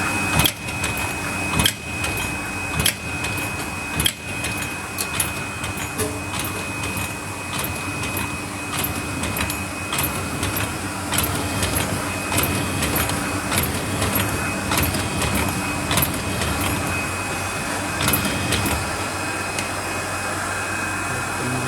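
Paper lid forming machine running, a steady mechanical hum with a thin high whine and regular sharp clicks from its stamping and forming action, about one a second.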